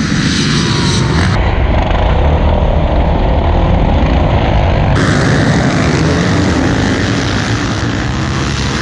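A pack of motocross dirt bikes accelerating together off the start line, giving a loud, dense, steady engine drone.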